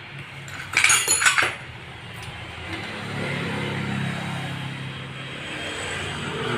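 Metal parts clinking sharply together in a quick cluster about a second in, followed by a steady low motor hum.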